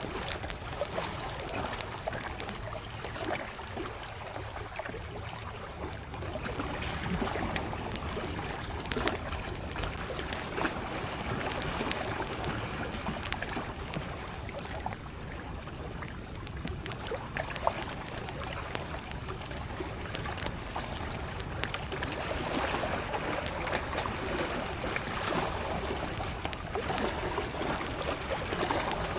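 Campfire crackling with many small sharp pops, over the steady wash of small waves lapping at the lakeshore.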